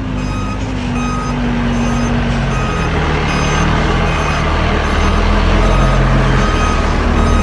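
Heavy construction vehicle backing up, its reverse alarm beeping about once a second over the loud running of its diesel engine.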